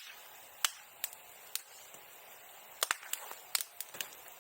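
Bonfire of bamboo and bamboo grass crackling: sharp, irregular cracks and pops, several close together about three seconds in, over a faint hiss from the fire.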